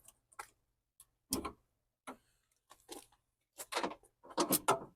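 Scattered light plastic clicks and knocks from hand work on car parts, unplugging electrical connectors. A quicker run of clicks comes near the end.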